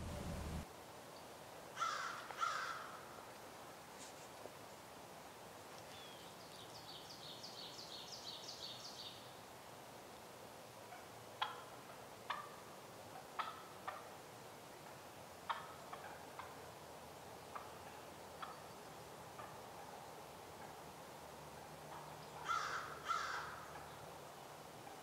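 Wild birds calling: a pair of loud harsh calls about two seconds in and again near the end, a quick run of high, evenly repeated notes around seven seconds, and scattered short chirps in between.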